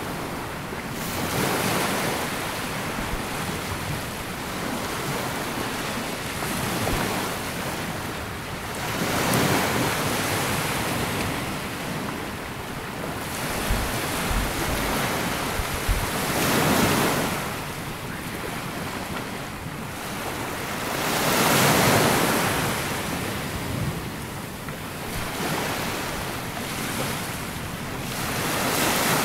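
Sea waves breaking and washing up a sandy beach, the surf swelling and ebbing about every four to eight seconds. Wind buffets the microphone now and then.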